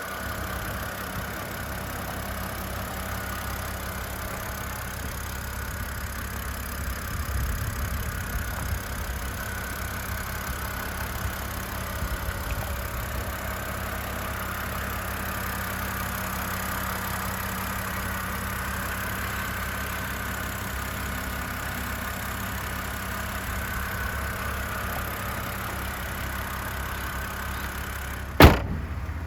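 BMW N52 3.0-litre inline-six engine, from a 2007 X5 3.0si, idling steadily during a test run. Near the end a single sharp knock, the loudest sound here, cuts across it.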